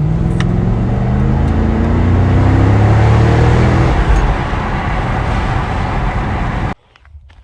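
2015 Chevrolet Camaro SS 6.2-litre V8 running through its stock exhaust, its engine speed sinking slowly after a rev and settling into a steady rumble. The sound cuts off suddenly near the end.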